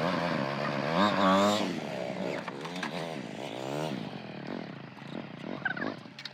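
A vehicle engine, most likely a motorcycle, running with its pitch rising and falling, loudest in the first few seconds and fading toward the end.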